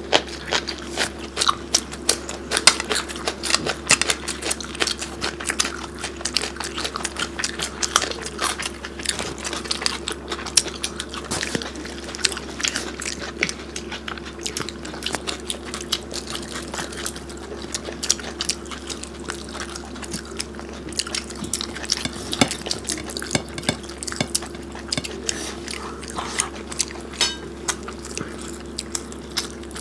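Two people chewing and smacking mouthfuls of rice and curry eaten by hand: a dense, continuous run of small wet mouth clicks, over a steady low hum.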